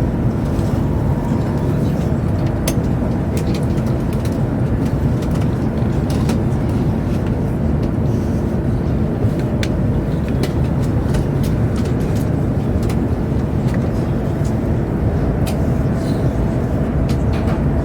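Steady low rumble and rush of a Chinese high-speed train running, heard inside the passenger car, with scattered light clicks and ticks.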